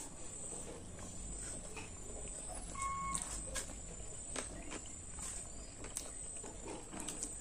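Eating sounds: chewing and soft mouth clicks from someone eating, scattered irregularly, over a faint steady high-pitched whine. A short faint beep comes about three seconds in.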